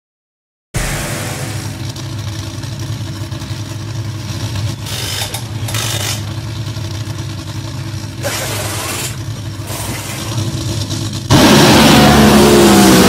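Hemi engine running steadily, starting about a second in; near the end it jumps suddenly much louder and revs, its pitch rising and falling.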